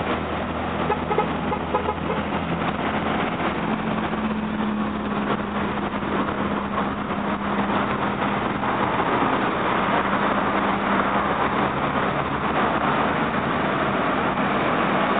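Several Chevrolet Monza sedans driving slowly past one after another, their engines running at low speed with a steady drone.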